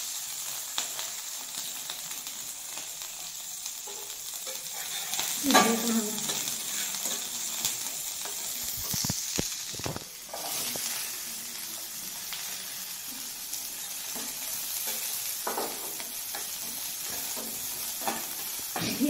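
Chopped onion and green chillies sizzling as they fry in hot oil with cumin seeds, stirred with a metal spatula that clicks and scrapes against the pan. The sizzle is steady, with a brief louder burst about five seconds in.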